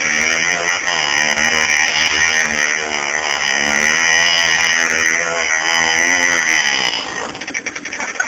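Minsk motorcycle's two-stroke single-cylinder engine running under load, its pitch rising and falling as the throttle works, then falling away about seven seconds in.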